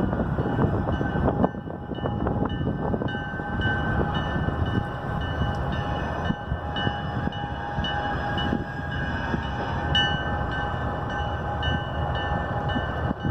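Ringling Brothers circus train rolling past close by: a steady rumble and clatter of the cars on the rails, with high ringing tones held over it throughout.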